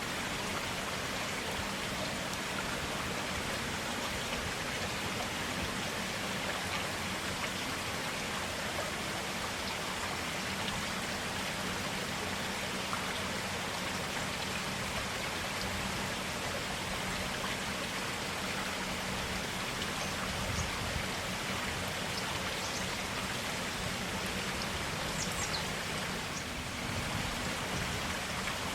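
A forest stream flowing: a steady, even rush of water.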